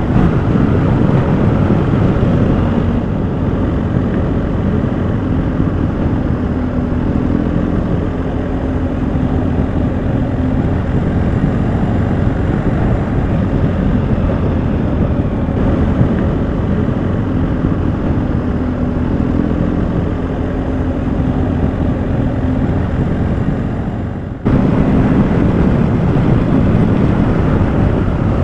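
BMW motorcycle-and-sidecar outfit under way at road speed: engine running with its pitch rising and falling, mixed with wind rushing over the microphone. The sound falls off briefly near the end, then comes straight back.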